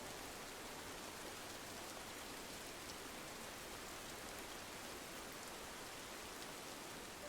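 Steady rain pattering on a window pane, a soft, even hiss with no breaks.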